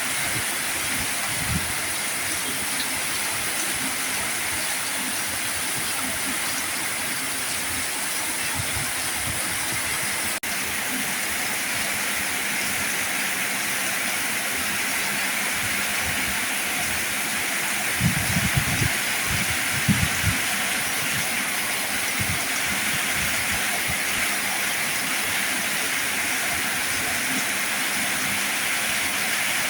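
Heavy rain falling in a steady, even hiss. About two-thirds of the way in, a short cluster of low thuds stands out over it.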